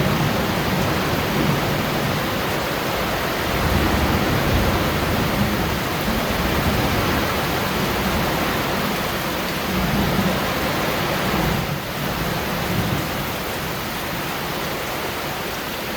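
Steady heavy rain falling, with a low rumbling that swells and fades several times.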